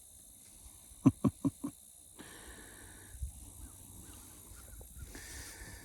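Young bull calf giving four short grunts in quick succession about a second in.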